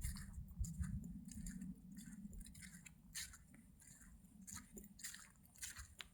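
Footsteps crunching through dry fallen leaves at a walking pace, about two crackly steps a second, over a low rumble that fades after the first two seconds.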